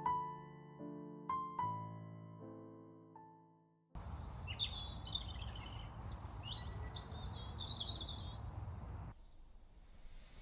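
Slow solo piano notes ring and fade out. About four seconds in, piano gives way to a steady outdoor hiss with small birds chirping and calling, which quietens near the end.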